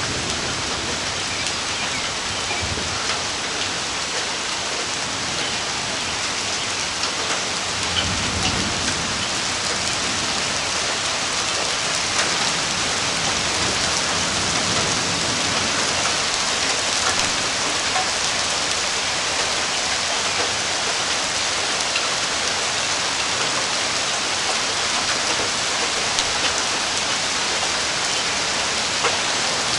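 Rain falling steadily during a thunderstorm, an even hiss of drops, with a brief low rumble about eight seconds in.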